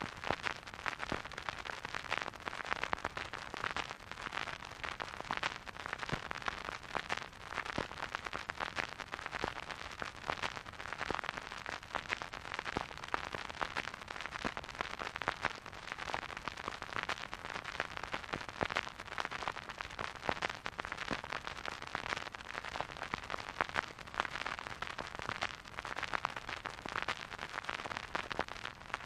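Record player surface noise: a steady hiss thick with small crackles and pops from the stylus riding a vinyl record, with no music.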